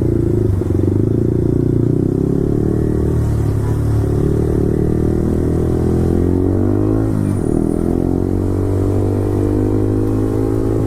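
Yamaha R15 V4's single-cylinder engine running through an Akrapovic full-system exhaust while riding. The revs dip sharply and climb again about seven seconds in.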